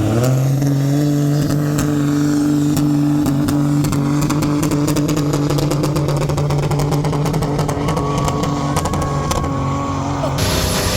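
Tractor engine revving up at the start, then running at a steady high speed with rapid clicking over it. The sound changes abruptly a little before the end.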